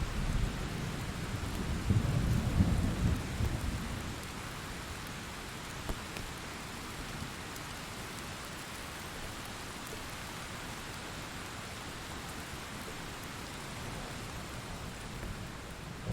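Steady rain hissing, with a low rumble of thunder in the first few seconds that fades out, leaving rain alone.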